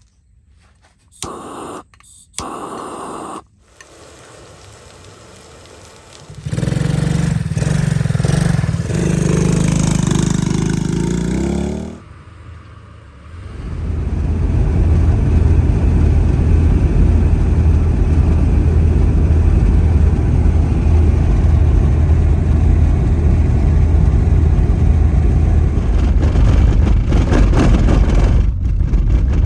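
A vehicle driving: a steady low rumble of engine and road noise that sets in about halfway through and holds, after a few short separate noises and a stretch of steady humming.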